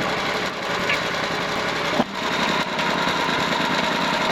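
Portable sawmill's engine running steadily at idle, with a single sharp click about two seconds in.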